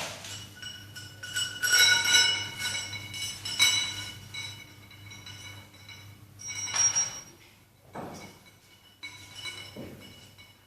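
Metal gym weights clinking and clanking against each other, about six strikes that each ring on briefly, the loudest about two and three and a half seconds in.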